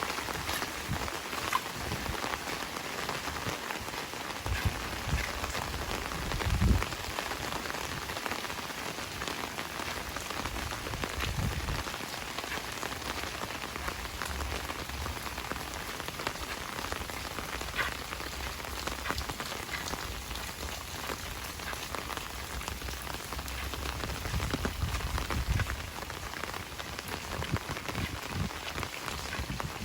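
Heavy rain falling steadily, a dense even hiss of drops hitting surfaces, with a few dull low thumps now and then.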